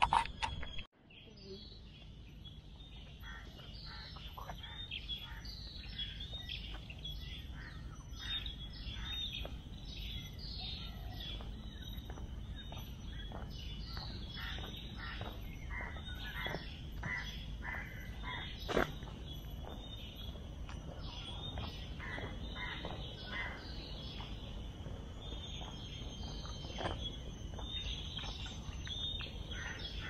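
Many birds chirping: short, high, falling calls in quick succession, over a steady low rumble. One sharp click about two-thirds of the way in.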